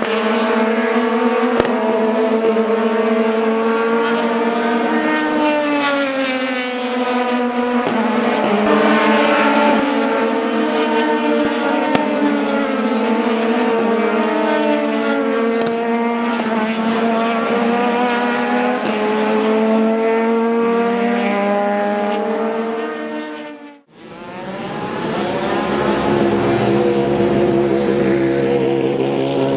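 Several race car engines at high revs together, their pitches rising and falling as they shift and pass. About 24 seconds in, the sound drops out for a moment and then comes back.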